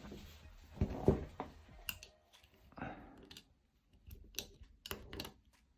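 Light, irregular clicks and knocks of small parts being handled, the loudest about a second in.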